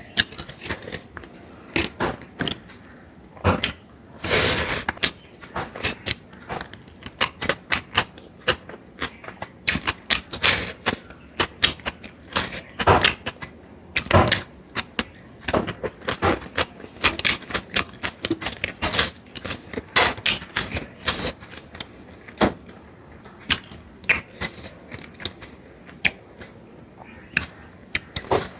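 Close-up eating sounds: mouth smacking and chewing on spicy mutton curry, with many quick, irregular wet clicks and a longer smeared slurp about four and a half seconds in.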